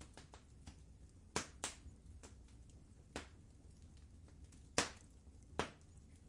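Wood fire crackling in a fireplace: irregular sharp pops and snaps over a low steady rumble of the flames, the loudest pops about a second and a half in and again near five seconds.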